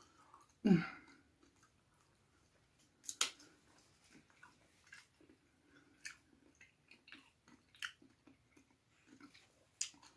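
A person chewing food close to the microphone: soft wet mouth sounds with scattered sharper clicks, the loudest about three seconds in. A short hum falls in pitch just under a second in.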